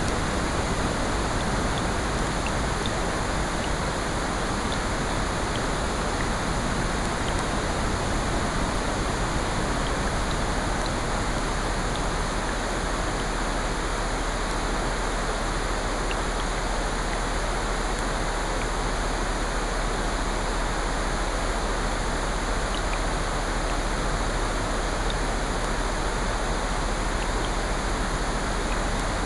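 Steady layered ambience of rain, ocean surf and a fireplace: an unbroken hiss of falling rain and waves with faint scattered ticks through it.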